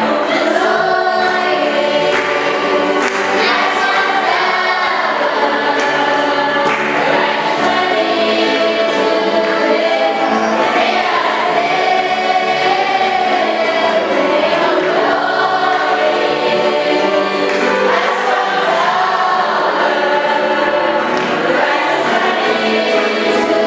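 Choir singing a hymn, many voices together in a steady unbroken line.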